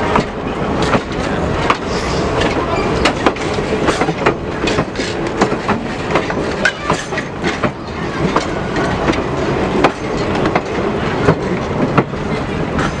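Passenger train cars rolling past, their wheels clicking and clacking over rail joints in a steady run of sharp, irregular clicks over the rumble of the train.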